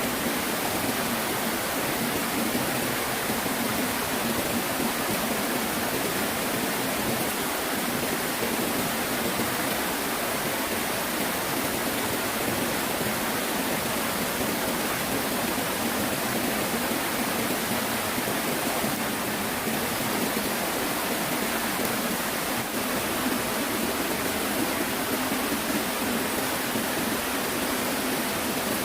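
Steady rushing of flowing stream water, an even noise with no breaks or changes.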